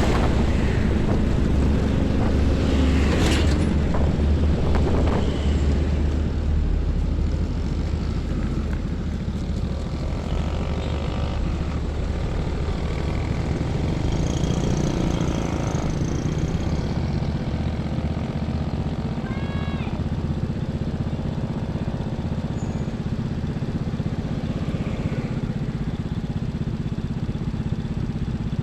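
Steady highway traffic passing close by, with heavy diesel trucks and other vehicles. A deep engine rumble is loudest for the first several seconds, then eases to a steadier traffic noise.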